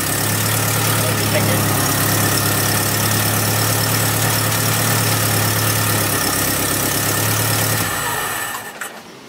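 Freshly swapped Honda H22A four-cylinder VTEC engine idling steadily at an even pitch, then fading out near the end. It is on a first test run with the cam timing still about one tooth off, and it holds an idle of about 1000 rpm set by its remapped ECU.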